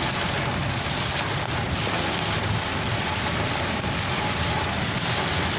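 Heavy rain drumming on a car's roof and windshield, heard from inside the cabin, with the car's road noise beneath; a steady downpour.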